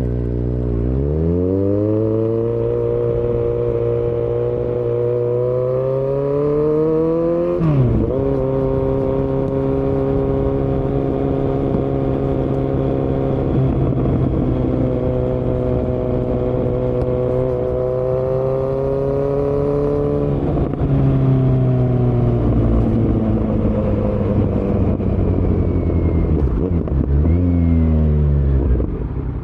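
A 2018 Kawasaki Z900's inline-four engine, breathing through a Yoshimura muffler and Delkevic headers with no dB killer, under way. It climbs in pitch for several seconds, drops sharply at an upshift about eight seconds in, and holds a steady pitch for about twelve seconds. Then it falls away as the throttle is rolled off, with a brief dip and rise in pitch near the end.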